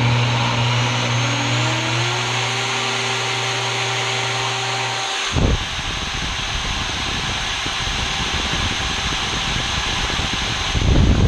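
Milwaukee electric router motor running on a test run after new bearings were fitted: its whine rises over the first couple of seconds, then holds steady. About five seconds in there is a sudden knock, and the sound turns into a rougher, noisier whir.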